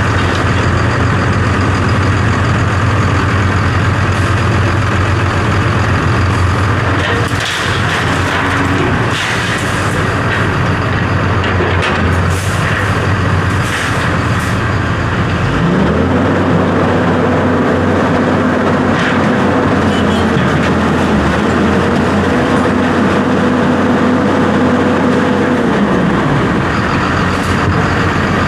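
Heavy diesel engine running steadily, with a few knocks in the first half. From about halfway, a steady higher hum comes in for about ten seconds, then stops.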